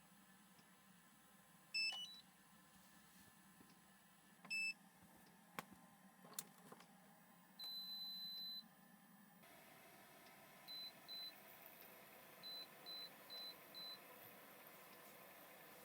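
Electronic beeps from a device's control panel: a short rising chime, a single beep and a few soft clicks, then a one-second high beep. After that a faint steady hum starts and short high beeps follow, two and then four.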